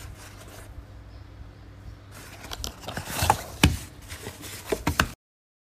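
Handling noise: rustling and scraping with a few sharp clicks over a low steady hum, cutting off abruptly about five seconds in.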